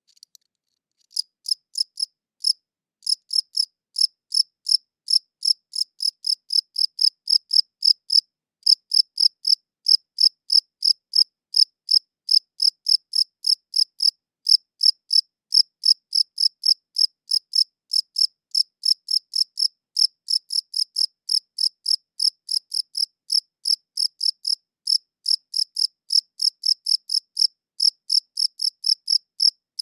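A cricket chirping: short, high-pitched chirps repeated evenly about three times a second, starting about a second in, with a brief pause about a third of the way through.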